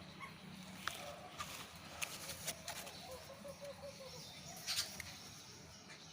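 Birds calling: scattered short, sharp chirps and, about midway, a quick run of low repeated notes, over a steady low background hum.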